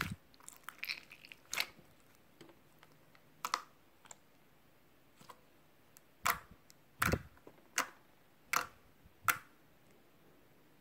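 A series of about eight sharp clicks and taps at irregular intervals, several clustered in the second half, over a quiet room.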